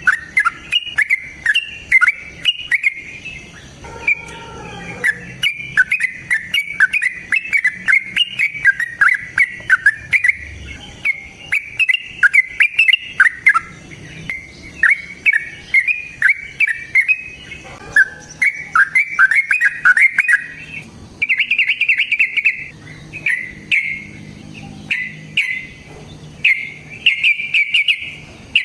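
A bird calling in a long, unbroken run of fast chirps, with denser trilled bursts in the last third.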